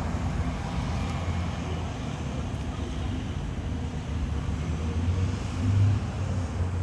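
Steady low rumble of vehicle engines and road noise, with wind on the microphone, swelling briefly near the end.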